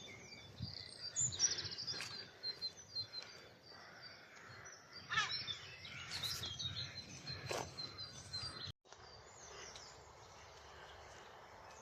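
Faint mixed songbird song: several small birds singing and chirping in short high phrases. It cuts out completely for a moment about nine seconds in.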